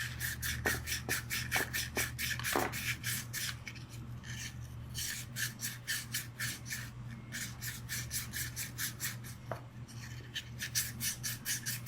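Sandpaper rolled on a pencil scrubbing back and forth inside a gyro compass pump, scraping out dirt: a rhythmic rasp of about four strokes a second, easing briefly a third of the way in.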